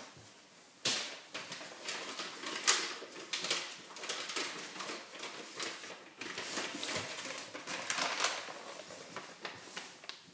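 Irregular rustling and clicking in a small room, with sharper knocks about one second in and about two and a half seconds in.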